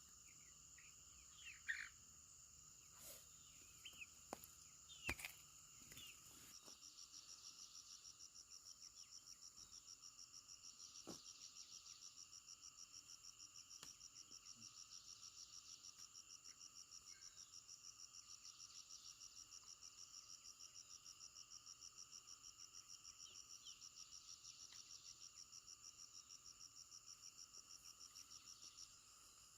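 Faint insect chorus: several steady high-pitched drones, joined about six seconds in by one insect chirping in a fast, even pulse that runs until near the end. A few sharp clicks and short chirps come in the first seconds.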